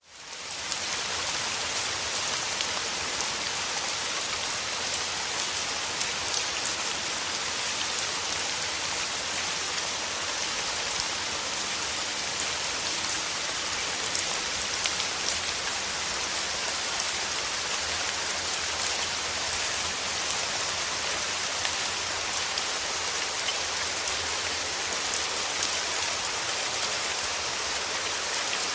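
Steady rain falling: an even hiss with many fine drop ticks, fading in quickly out of silence at the very start.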